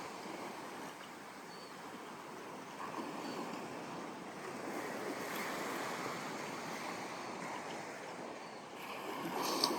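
Ocean surf washing onto a sandy beach, a steady rush of breaking waves that swells again near the end.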